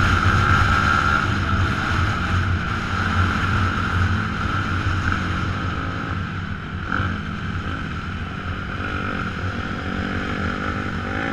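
Motocross bike engine running hard under race load, heard from an onboard camera, with wind rushing over the microphone; the engine eases a little about halfway through as the bike sweeps through a bend.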